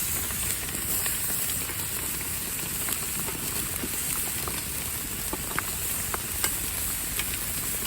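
Hamburger patty and diced potatoes sizzling steadily on a grill, with scattered sharp pops, while rain falls.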